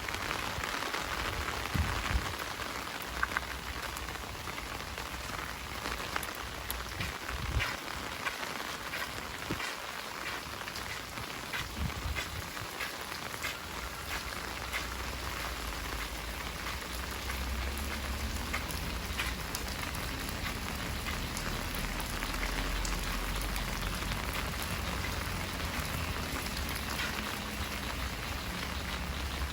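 Heavy rain falling steadily, with many close drops ticking sharply through the hiss. A low steady rumble comes in about halfway and grows toward the end.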